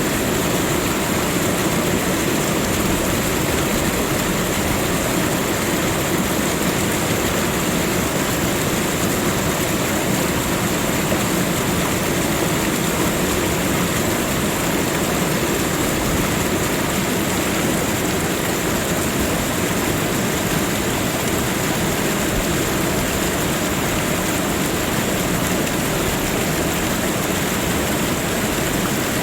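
Steady, unbroken rushing of water, an even hiss across the whole range with no distinct events.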